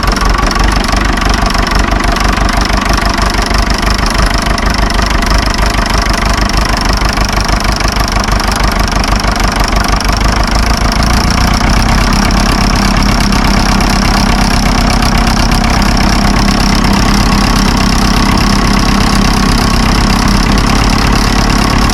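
1954 Fordson tractor engine running steadily after years of sitting idle, its fast firing beat even. About halfway through, a steady hum comes in over the beat.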